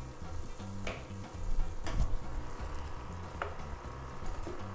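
Black chickpeas and onion masala sizzling in a pressure cooker as a wooden spoon stirs them, with a few light knocks of the spoon against the pot.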